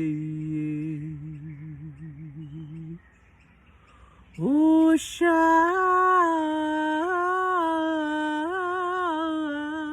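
A woman chanting long, held, wavering tones on channelled "light language" syllables such as "Osha". The first tone dies away about three seconds in, and a new one begins about a second and a half later.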